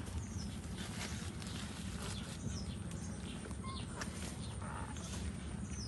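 Steady low rumble with scattered short, high chirps and squeaks.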